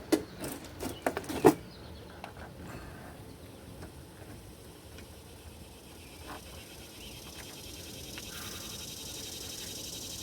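A few sharp clicks and knocks in the first second and a half as a new rubber window run channel is handled and pressed into a car door frame, then quieter handling noises. A steady hiss comes in near the end.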